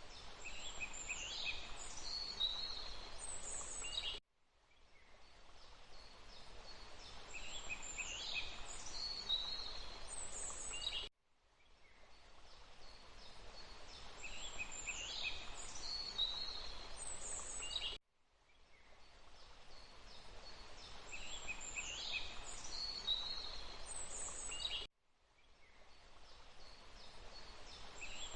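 Songbirds chirping in short high calls over a steady rush of flowing water. It is a short forest recording looped: about every seven seconds the sound cuts off abruptly, fades back in and the same bird calls repeat.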